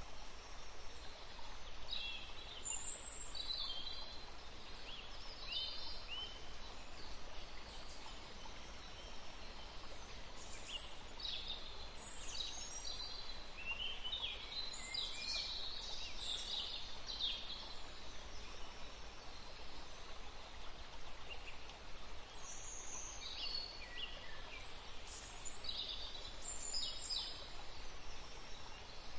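Birds chirping in the background, short scattered calls in clusters, over a steady faint hiss.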